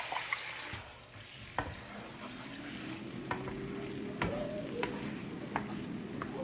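Eggs sizzling in butter in a frying pan while being stirred, with a utensil tapping against the pan several times.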